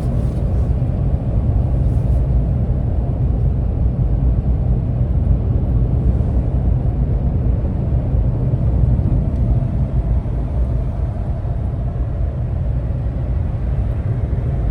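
Steady low rumble of a vehicle driving in slow traffic, engine and road noise with no sharp events.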